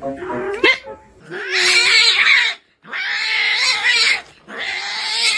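A cat giving a short cry, then three long, harsh growling hisses, each about a second and a half, with brief pauses between.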